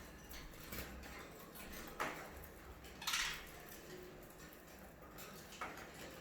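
Light knocks and a short clatter: a sharp click about two seconds in, a brief rattle about a second later, and another click near the end.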